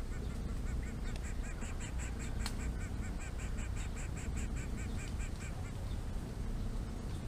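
Greater coucal nestlings begging: a fast, even series of short nasal calls, about five a second for some five seconds. One sharp click sounds partway through, over a steady low rumble.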